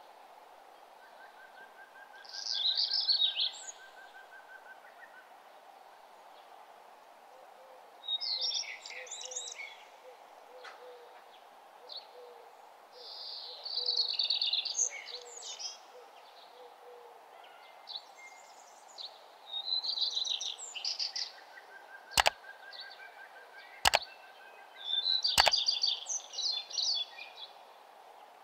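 Bird chirping in short repeated phrases every few seconds over a steady low hum, with three sharp clicks about three-quarters of the way through.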